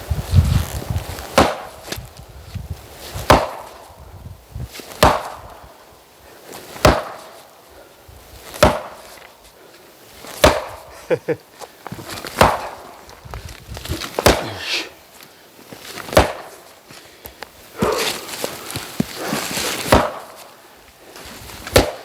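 Oak firewood being chopped: a steady series of sharp wooden strikes, about one every two seconds, each with a short splintering tail.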